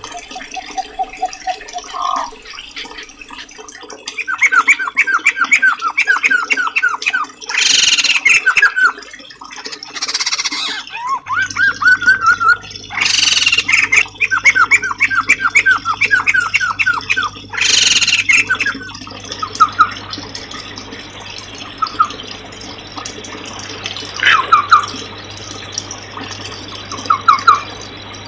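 Songbirds calling: runs of rapid, repeated rising chirps, broken four times by loud harsh squawks, with the chirping thinning out in the second half.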